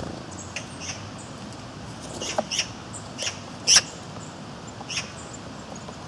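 Short, high bird calls, about seven of them at irregular intervals, the loudest a little under four seconds in, over a steady outdoor hiss.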